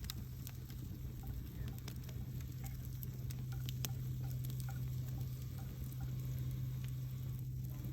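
Wood campfire crackling, with scattered sharp pops and ticks over a steady low hum.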